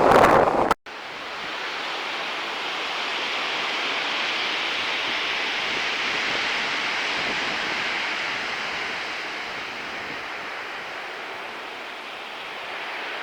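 Steady rush of sea surf breaking and washing on the shore, slowly swelling and easing. It opens with a loud blast of wind on the microphone that cuts off abruptly under a second in.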